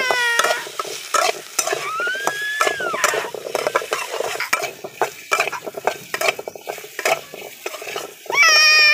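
Potato pieces frying in hot oil in a karai, a steady sizzle with dense crackling. About two seconds in a single tone rises and falls, and near the end there is a loud high-pitched call.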